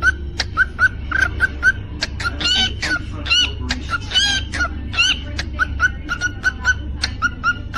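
Cockatiel chirping and whistling: a quick run of short rising chirps, with louder, gliding whistled notes in the middle, and scattered sharp clicks, over a low steady hum.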